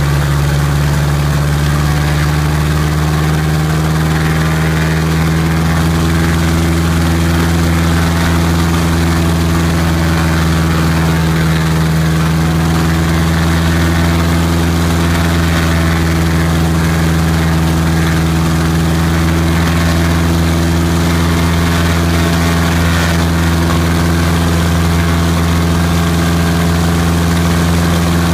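Freshly rebuilt Piper Apache piston aircraft engine running steadily at low power with its propeller turning. Its pitch rises slightly over the first few seconds, then holds even.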